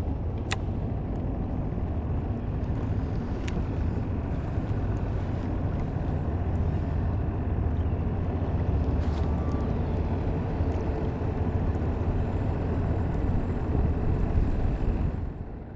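Skiff's outboard motor running underway, a steady low rumble mixed with wind on the microphone; it drops off sharply near the end, as the boat throttles down.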